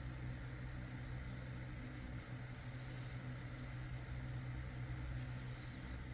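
Soft, quick rustling and rubbing strokes from comic books being handled, over a steady low electrical hum. The rustling runs from about a second in until near the end.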